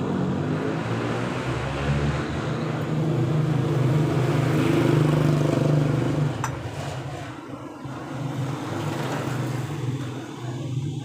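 A motor vehicle engine running with a steady hum that swells over several seconds and then eases off, with a single sharp click about two thirds of the way through.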